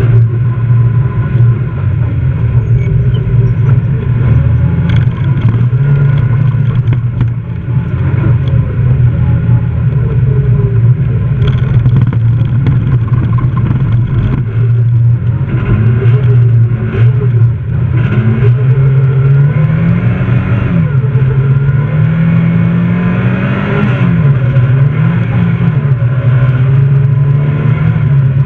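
Fiat rally car's engine heard from inside the cabin at racing speed, the revs rising and falling repeatedly through the second half as the car accelerates and lifts off.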